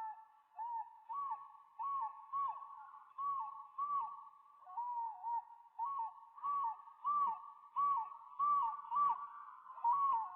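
A bird repeating a short hooting call that rises and falls, about one to two calls a second.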